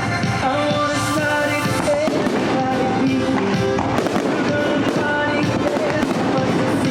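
Fireworks going off in many sharp bangs over a loud music soundtrack.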